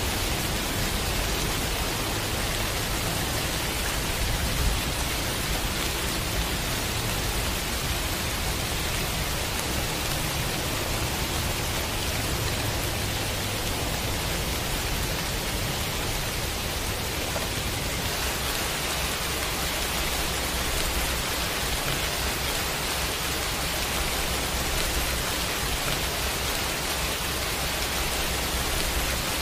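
Steady pouring rain: an even, unbroken hiss of rainfall with a low rumble underneath.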